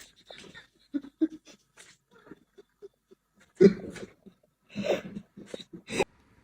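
A pet's short, irregular breathy huffs, the loudest about three and a half seconds in.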